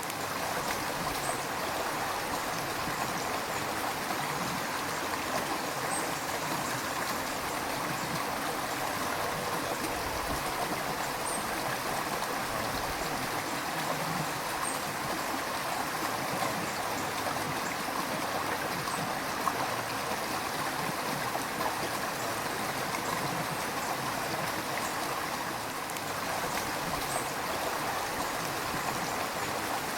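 River water flowing and gurgling steadily, an even rush with no let-up.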